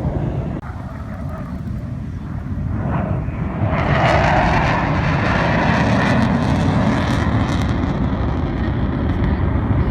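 Panavia Tornado's twin RB199 turbofan jet engines, a loud rumble that swells and grows louder about four seconds in and stays loud as the jet passes.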